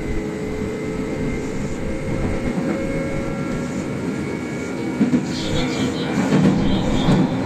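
Kintetsu express electric train running, heard from inside the front car: a steady rumble of wheels on rail with a faint motor whine. From about five seconds in, the wheels clatter louder over the rail joints.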